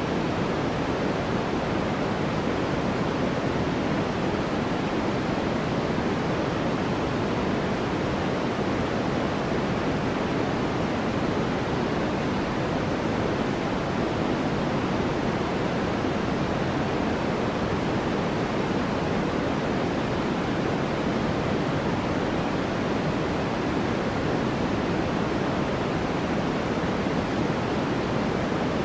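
Steady white noise for sleep: an even, unchanging hiss, fuller in the low and middle range than at the top.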